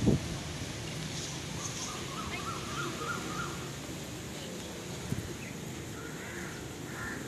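Small birds chirping: a quick run of short notes in the first half and a few more calls near the end, over a steady low outdoor background rumble.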